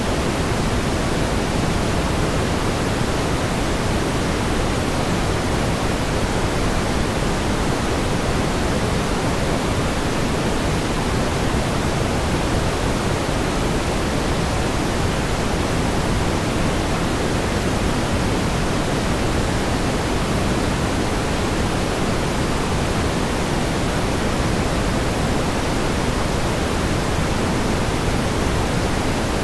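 Steady pink noise: an even, unchanging hiss, weighted toward the low end, with no events or changes.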